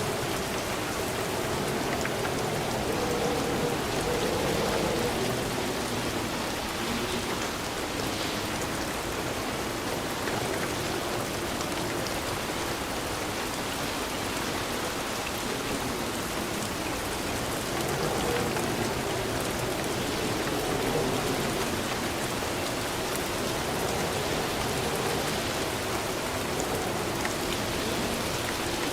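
Steady rainfall pattering on a surface, a constant even hiss with faint individual drop ticks and a gentle low wash that swells and eases slowly.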